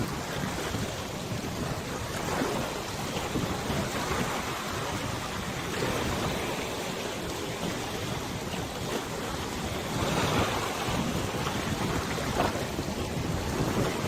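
Wind over a wide river: a steady rushing noise with a low rumble of wind buffeting the microphone and water washing beneath it. It swells a little about ten seconds in.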